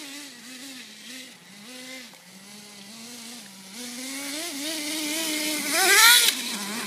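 Redcat Volcano RC monster truck's motor running, its pitch stepping up and down with the throttle. About six seconds in it climbs steeply to a loud full-throttle rev, then drops back.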